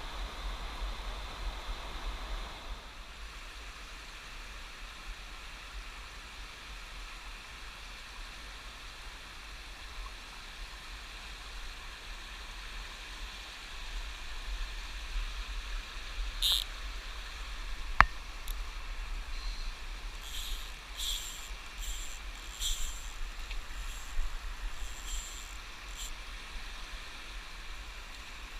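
Steady rush of flowing river water, with one sharp click about eighteen seconds in and a scatter of short clicks and rustles in the later part.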